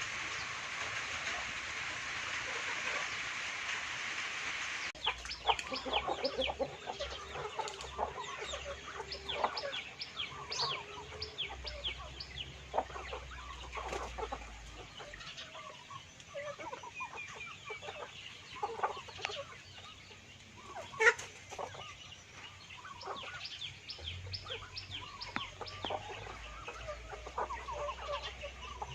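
A flock of free-range village chickens clucking, with many short calls overlapping. For the first five seconds a steady hiss is heard instead, and it cuts off suddenly.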